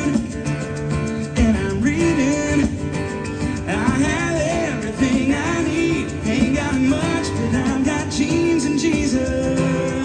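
Country-style gospel band playing live: guitars and full band carrying the song, with a wavering melody line over the accompaniment.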